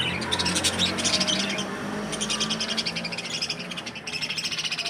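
Budgerigars chattering: a fast, continuous run of high chirps and warbles, with a brief lull about two seconds in.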